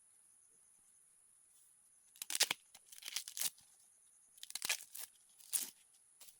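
Dry plant material being torn and crunched in several short bursts, starting about two seconds in.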